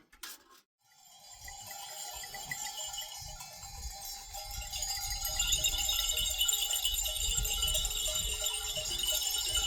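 Many livestock bells on a moving herd of goats and sheep, a jumble of overlapping clinks at different pitches that builds up over the first few seconds and then holds steady.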